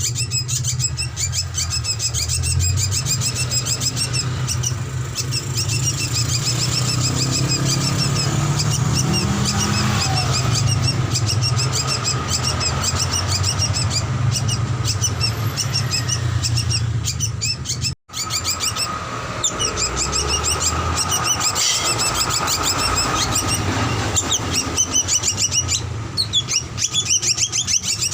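Drongo (srigunting) calling with rapid, repeated high chirps over a steady low hum. The sound drops out for an instant about eighteen seconds in.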